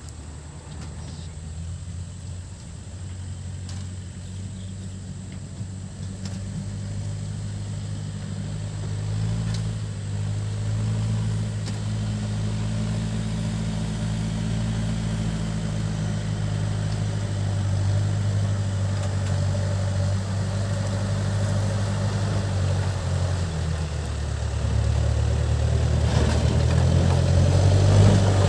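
Backhoe loader's diesel engine running, growing steadily louder, with its pitch shifting a few times as the load changes.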